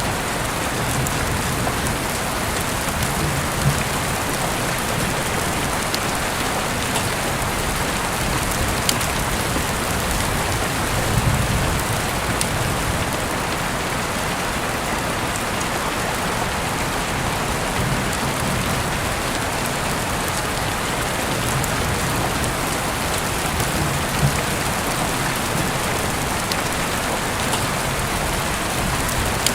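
Heavy rain falling steadily, a dense even hiss with occasional sharper drop ticks and a few soft low rumbles.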